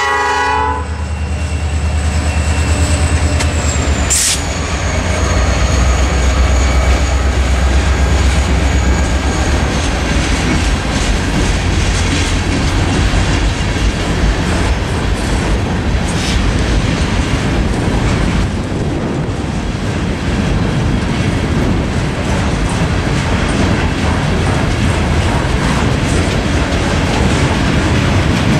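The last half-second of a locomotive air-horn blast, then a passing freight train. The EMD SD40-2's diesel engine runs with a deep rumble for about the first ten seconds as it goes by, and after that the freight cars' wheels roll and clatter over the rail joints.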